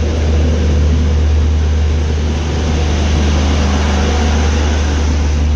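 Steady low rumble of a departing passenger train running past, loud and even.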